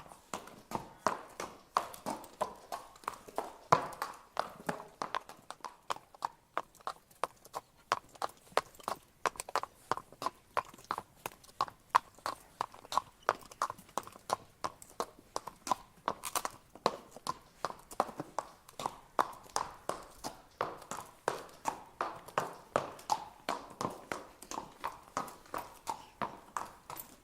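Horse walking: its hooves strike the ground in a steady clip-clop of sharp knocks, about three to four a second.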